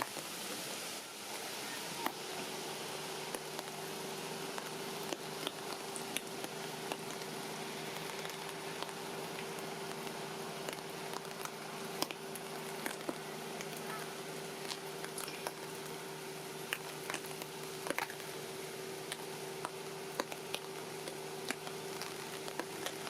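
Steady rain falling, with scattered sharp taps and drips from drops landing close by. A steady low hum sets in about two seconds in.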